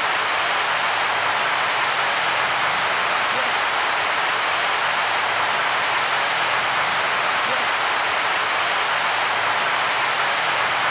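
Heavy rain falling, a steady, even hiss that starts abruptly and fades out near the end.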